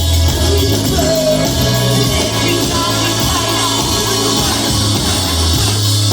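Live rock band playing loud, with singing and heavy sustained bass notes, as heard from the audience.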